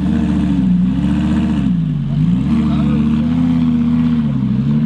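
Classic car engine being revved, its pitch rising and falling several times as the throttle is opened and eased off.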